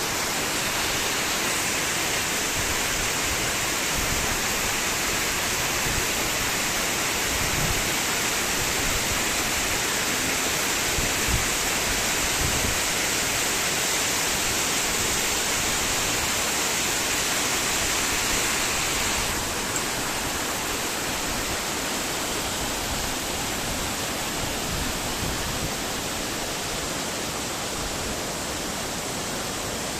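Steady rushing noise, even and unbroken; its higher part drops a little about two-thirds of the way through.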